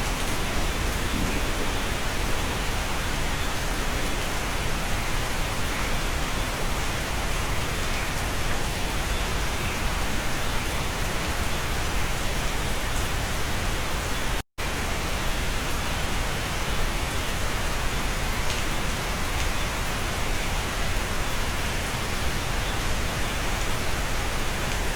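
Steady rain heard from inside a cabin, a dense, even hiss. It cuts out for an instant about halfway through.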